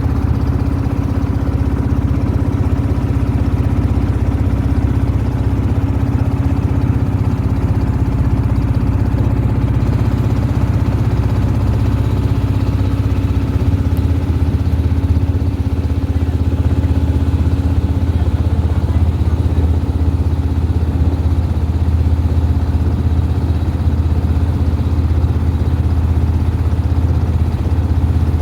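A boat's engine running steadily at an even speed, a constant low hum.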